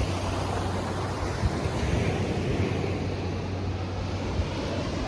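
Ocean surf washing on the beach, with wind buffeting the microphone as a steady low rumble.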